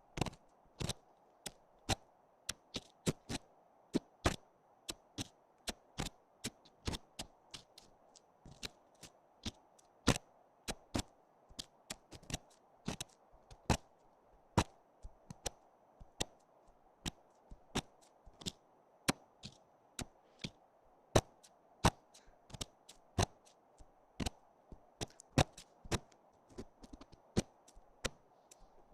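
Ear-cleaning ASMR sounds: a stream of sharp, irregular clicks and taps, about two or three a second, over a faint steady hiss.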